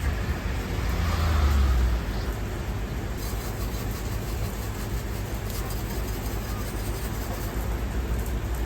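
Steady low rumble of a commercial ramen kitchen's gas burners and extractor hood, swelling louder for about a second near the start.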